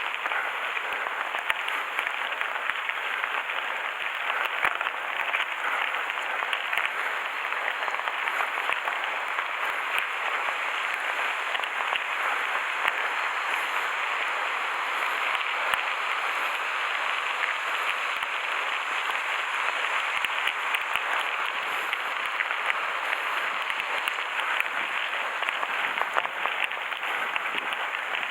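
Mountain bike rolling fast over a gravel forest road: a steady crunch and rattle of the tyres on loose stones, dotted with many small clicks and knocks.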